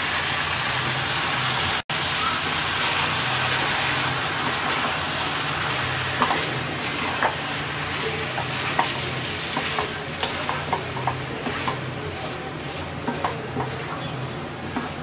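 Boiled moong dal sizzling in a hot kadai of spiced drumsticks and vegetables as it is stirred in with a wooden spatula, a steady frying hiss. From about six seconds in, the spatula clicks and scrapes against the pan.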